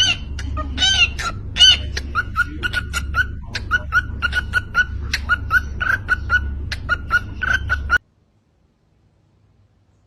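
Chickens clucking in quick, short repeated calls over a low steady rumble, with a few louder drawn-out calls near the start; it all cuts off suddenly near the end.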